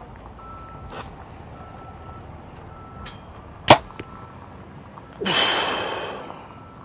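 PSE Drive compound bow being shot: a single sharp snap of the string at release about halfway through, followed a fraction of a second later by a faint knock of the arrow striking the target. About a second and a half later comes a rush of noise that fades away.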